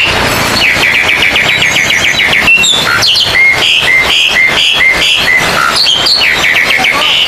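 Oriental magpie-robins (kacer) singing loudly at a song contest: fast rattling trills of high notes near the start and again near the end, with a run of repeated short whistled phrases in between, over a steady noisy background.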